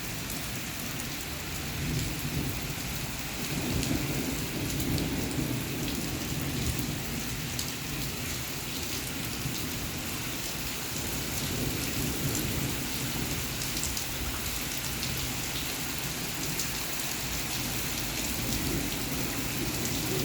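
Heavy rain falling steadily, with individual drops ticking sharply over a dense, even hiss.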